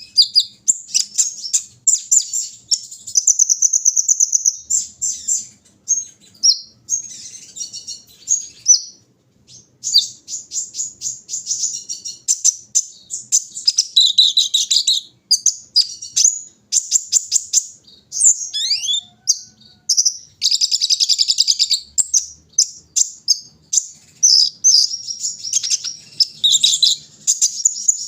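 A sunbird, the Indonesian 'kolibri ninja', singing: a long run of rapid, very high-pitched chirps and buzzy trills, with a short pause about nine seconds in.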